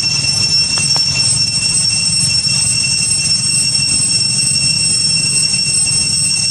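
Cicadas droning: a loud, unbroken high-pitched whine over a low rumble.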